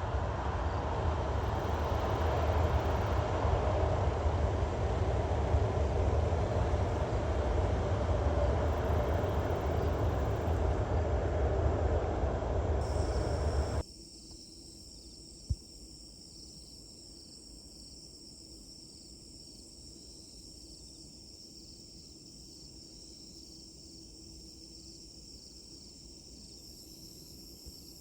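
Loud steady rushing noise, heaviest in the low end, which cuts off suddenly a little past the middle. After the cut come faint steady cricket chirring and a single sharp click.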